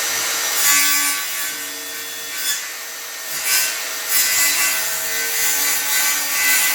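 Circular saw running at full speed, its blade biting into wood in a series of short, rough surges as the cut goes haltingly.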